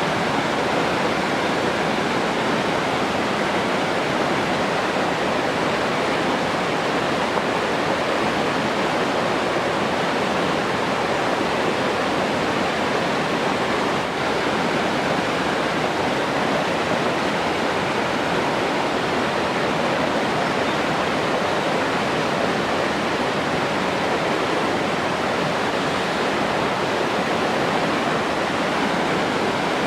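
Steady rushing water, like a waterfall or fast stream, an even hiss with no breaks.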